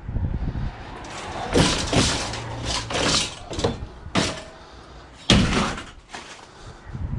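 Scrap metal being handled and loaded: a series of about six clattering bangs and knocks, the loudest about five seconds in.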